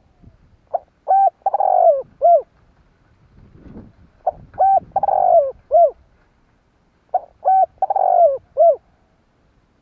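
Spotted dove cooing its song three times in a row. Each phrase is two short coos, a long, burry coo that falls at the end, and a last short coo.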